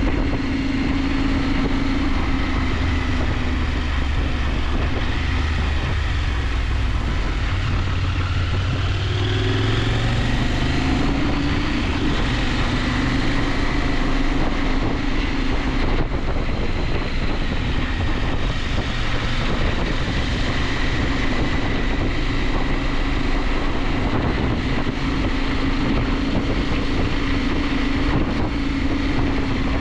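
KTM 890 Adventure's parallel-twin engine running steadily under way, with wind and road noise over it. The engine note drops about a third of the way in, then climbs again.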